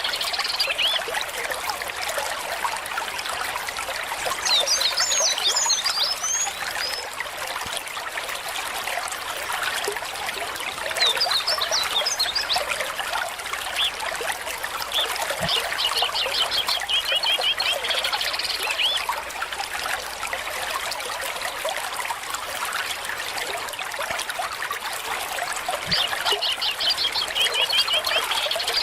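Shallow stream trickling and splashing steadily over stones. Songbirds sing over it: a fast trill repeats at the start, again midway and near the end, with higher chirping phrases in between.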